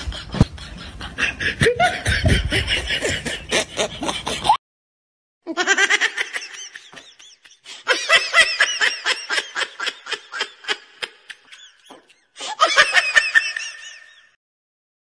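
Repeated bursts of laughter in quick pulses, in three runs. Each run cuts off abruptly into dead silence, the first about four and a half seconds in, and the last ends shortly before the end: edited-in canned laughter.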